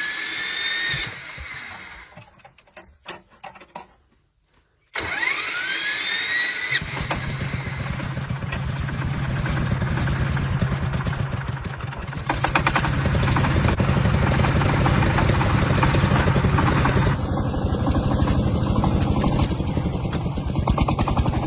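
Tractor engine being cranked over with a rising whine. The first attempt sputters and dies. A second crank catches about seven seconds in, and the engine settles into a steady run that grows louder about five seconds later.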